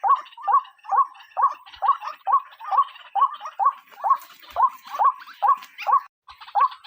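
Female white-breasted waterhen (ruak-ruak) calling over and over, about two short, rising, hooked notes a second, with a brief pause just after six seconds in.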